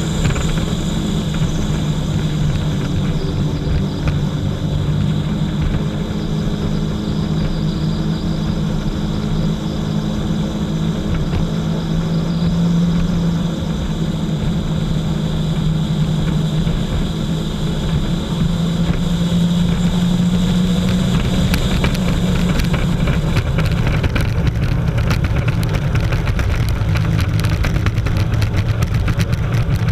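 Jet ski engine running at a steady pitch, then settling to a lower note in the last several seconds.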